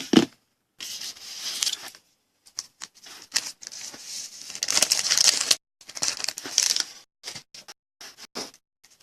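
Trading card pack wrapper being torn open and crinkled, in several irregular crackling bursts, followed by a few short clicks near the end as the cards are handled.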